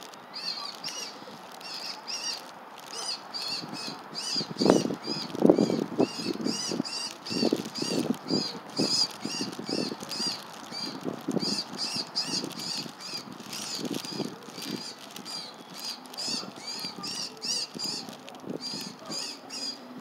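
A bird calls over and over in short, high-pitched chirps, about two a second, while a hawk feeding on a caught bird on the grass makes irregular rustling and wing-flapping noises, loudest about four to nine seconds in.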